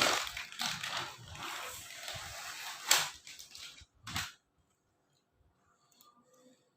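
Rustling handling noise with two sharp knocks, about three and four seconds in, then near silence for the rest.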